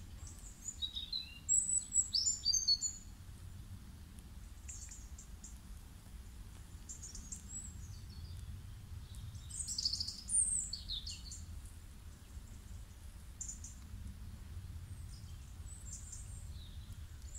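Small birds chirping in short, scattered high calls, several together around two seconds in and loudest a little after the middle, over a low steady rumble.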